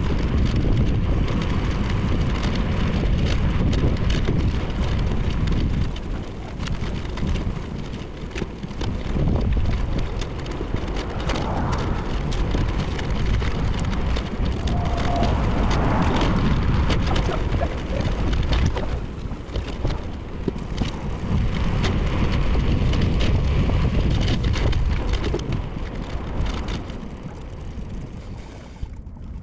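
Steady rushing wind and road noise on a bicycle-mounted action camera's microphone, with the level dipping a few times and again near the end.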